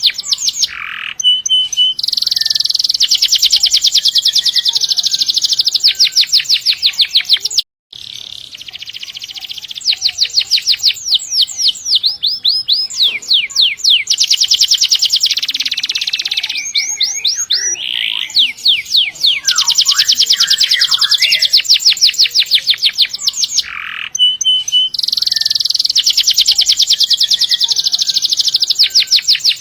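Domestic canary singing in long rolling trills: runs of very fast, high repeated notes broken by short pauses and some sliding whistled notes. The song cuts out abruptly for a moment about eight seconds in, then carries on.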